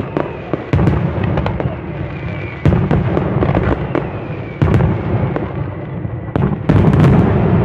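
Aerial fireworks bursting: about four loud, deep booms roughly two seconds apart, with sharp crackling cracks between them.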